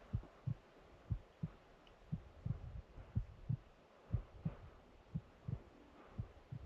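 Low, dull thuds in lub-dub pairs, about one pair a second, like a heartbeat sound effect over a faint background.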